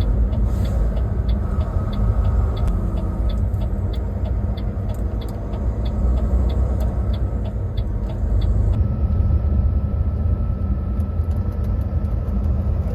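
Truck running on the road, a steady low rumble, with a regular light ticking about three times a second that stops about nine seconds in.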